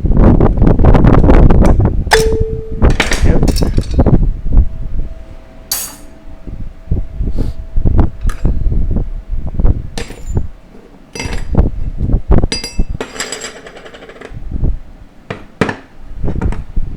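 Metal parts of a 4L60E automatic transmission being worked apart by hand: dense handling clatter for the first few seconds, then a string of separate clinks and knocks of metal on metal.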